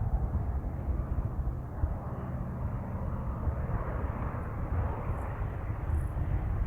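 Howard 500's twin Pratt & Whitney R-2800 radial piston engines running, a steady deep rumble that swells a little about halfway through.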